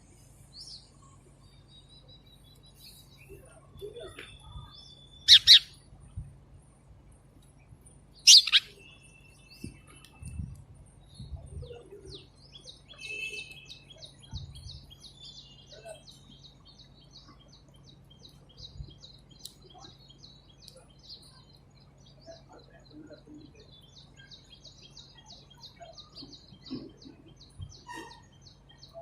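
A small bird chirping: two loud, sharp chirps about five and eight seconds in, then a long run of fast, rapidly repeated high twittering, over a faint steady low hum.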